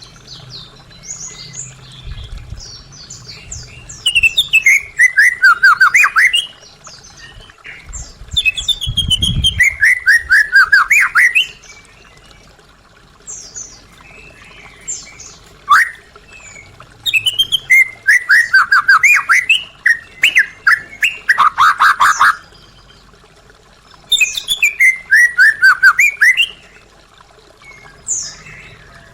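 White-rumped shama (murai batu) singing in four loud bursts, each a fast run of notes falling in pitch, with softer chirps between the bursts.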